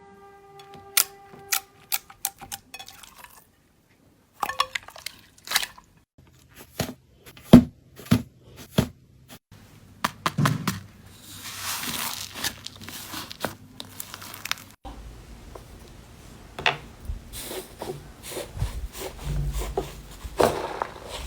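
Slime being pressed, poked and stretched by hand, giving a run of sharp clicking pops and soft crackling, with a brief steady tone in the first few seconds.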